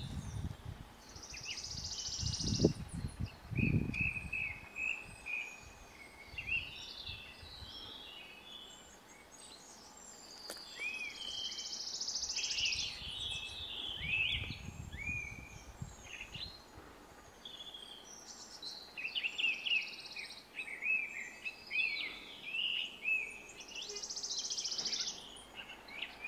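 Small songbirds chirping and giving short calls over and over. A high, hissing buzz comes three times, and a low rumble sounds in the first few seconds and again about midway.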